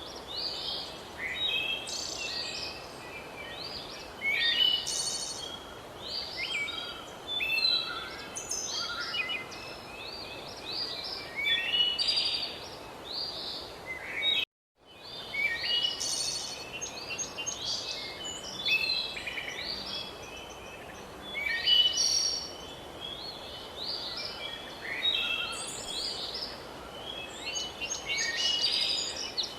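Dense chorus of many songbirds chirping and trilling over a light background hiss, cut off for a split second about halfway through.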